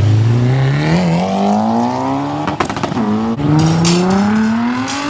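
Car engine accelerating hard, its note rising steadily, then a gear change about two and a half seconds in marked by a brief burst of sharp crackles, after which the note climbs again.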